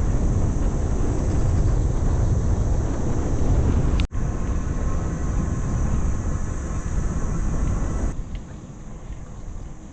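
Wind buffeting the microphone of an e-bike being ridden, a steady low rumble. It eases about eight seconds in as the bike slows.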